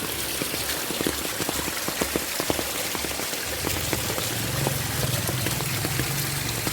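Heavy rain falling, many close drops striking as sharp ticks over a steady hiss; a low rumble comes in a little after halfway.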